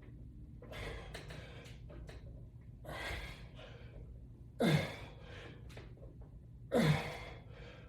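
A man breathing hard from exertion during a resistance-band workout: four heavy breaths, the last two loud, sharp gasps about two seconds apart, each with a falling voiced tone.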